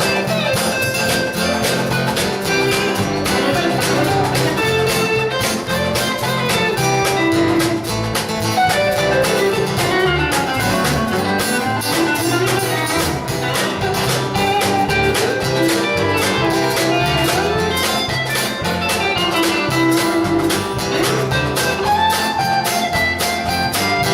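Live country band playing an instrumental break between verses: guitars strumming a steady rhythm under a lead melody that slides up and down in pitch.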